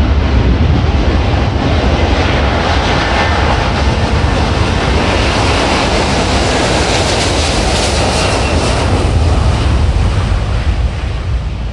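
Jet aircraft taking off: a loud, continuous jet roar with a deep rumble and a crackle that is strongest in the middle, beginning to fade near the end.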